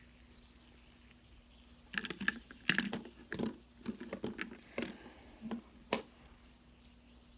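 A string of about a dozen light clicks and taps between about two and six seconds in, over a faint steady hum.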